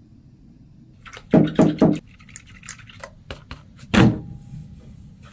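A run of three loud knocks in quick succession, then scattered light clicks and one heavy knock with a short ring about four seconds in.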